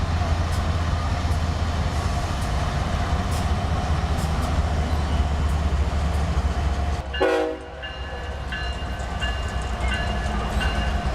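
Train running by with a steady low rumble. About seven seconds in there is a short, pitched horn-like blast and the sound changes, then thin high-pitched tones come and go.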